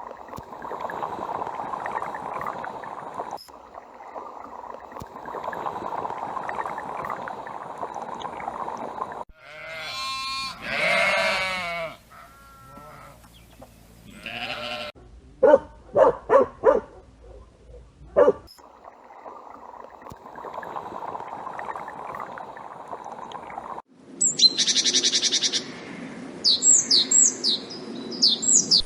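Farm animals calling: a long wavering bleat about ten seconds in, a run of short loud calls a few seconds later, and quick high chirps near the end, between stretches of steady background noise.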